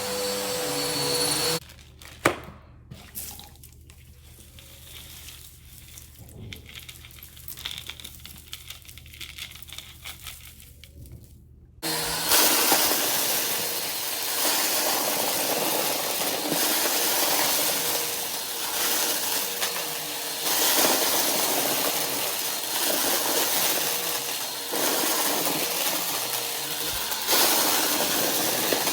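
Vacuum cleaner with an overfilled dustbin: it runs with a whine and is switched off about a second and a half in. A click and about ten seconds of quiet handling follow, then it starts again with a loud rushing suction that swells and eases every second or two as it crunches up confetti.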